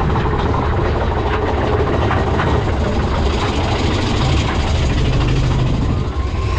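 Mine-train roller coaster running along its track: a steady, loud rumble of wheels on steel rail with scattered clatter and knocks, about two seconds in.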